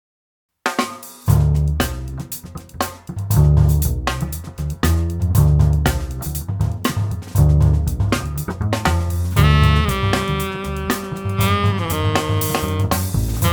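Jazz band music starting cold: a drum kit with hi-hat, snare and cymbal playing a groove over low bass notes. A saxophone comes in with held notes about two-thirds of the way through.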